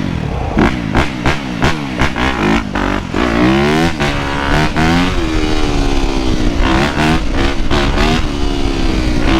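Dirt bike engines revving up and down, their pitch rising and falling over and over, with a quick series of sharp blips in the first few seconds.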